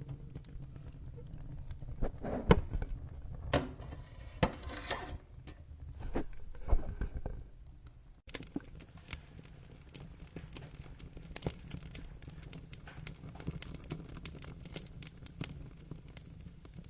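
Wood fire crackling in a fireplace: irregular sharp pops and snaps over a low steady rumble, with the loudest pops in the first half. About eight seconds in the sound drops out for an instant, then carries on as a quieter, busier crackle.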